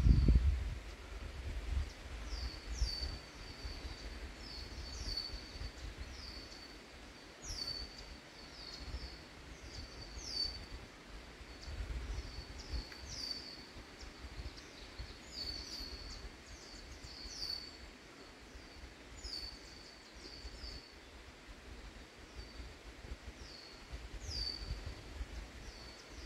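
Small songbirds calling: short high chirps that slide downward, repeated every second or so throughout, with a low rumble underneath.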